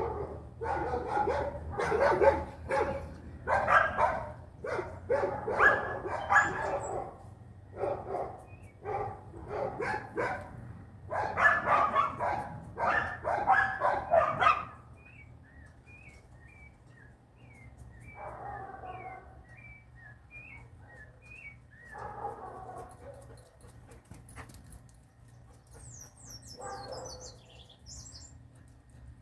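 A dog barking repeatedly for about fifteen seconds, then falling quiet except for three fainter barks. Small birds chirp in short high notes through the later part.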